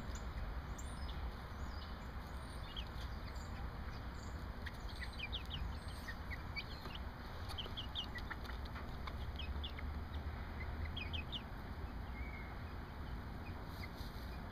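Backyard hens clucking and chirping softly in many short, scattered calls, over a steady low background hum.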